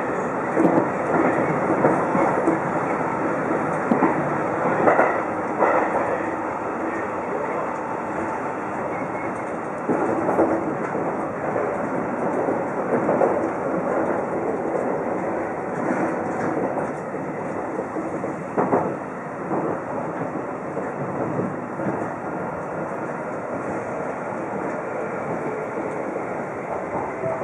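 Seibu 2000 series electric train heard from the driver's cab: steady wheel-on-rail running noise with irregular clicks and knocks as the wheels cross rail joints and a set of points. The noise eases a little in the last seconds as the train runs into the station platform.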